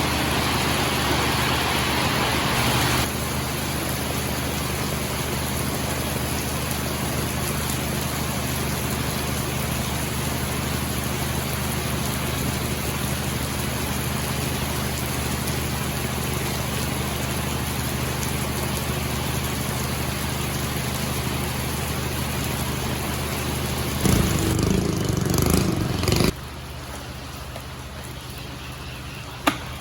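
Fishing boat's engine running steadily under an even hiss. The sound swells for about two seconds near the end, then drops off abruptly.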